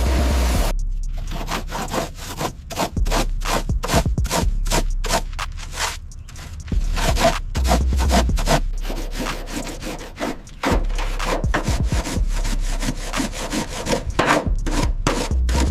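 Repeated rubbing strokes against a surface, about three a second, with short pauses about six and ten seconds in, as in hand scrubbing or sanding during the car's restoration.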